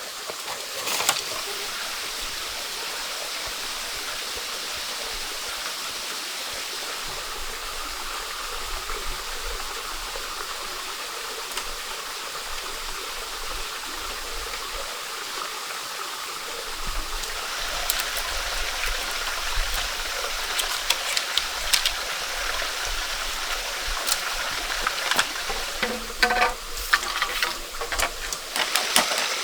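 Steady rush of a flowing stream. A little past halfway, irregular clicks and knocks start on top of it, coming thicker near the end.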